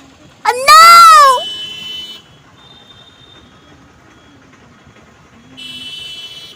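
Vehicle horns honking in traffic. About half a second in comes one very loud blast whose pitch rises and falls, followed by fainter held horn tones, with another horn sounding near the end over low road noise.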